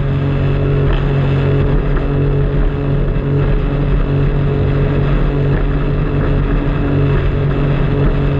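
Jet ski engine running at a steady pitch, with water and wind noise around it.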